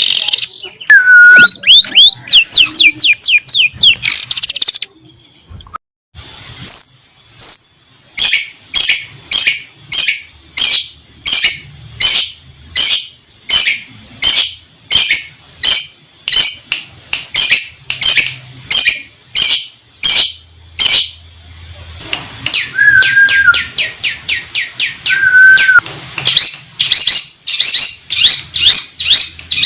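Long-tailed shrike (cendet) singing loudly: a long series of sharp, high, repeated notes about two a second, then faster trilled phrases with a short steady whistle near the end, part of a song filled with imitations of canary and lovebird calls.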